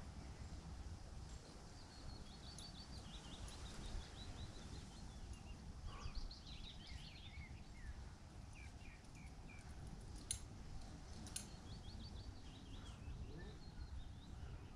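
Small birds singing in short repeated chirping phrases, faint, over a low steady rumble, with two sharp clicks about ten and eleven seconds in.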